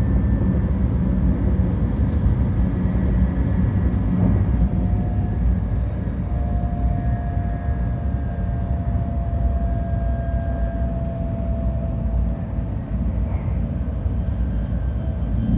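Cabin noise of a 700 Series Tokaido Shinkansen train running: a steady low rumble from wheels on rail and the passing air. A faint steady whine sits over it through the middle.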